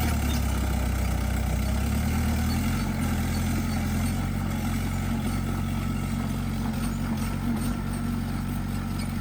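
Bulldozer's diesel engine running steadily with a low hum, easing off slightly about two seconds in.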